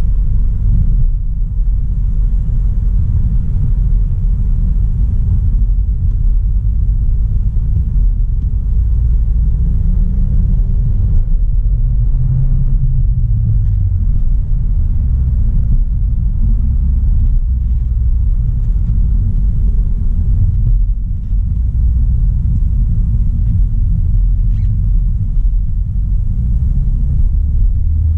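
Audi A3 Sportback's 1.4 TFSI turbocharged four-cylinder petrol engine and tyres on the road, a steady low rumble while driving. The engine note rises and then falls again about ten to fourteen seconds in.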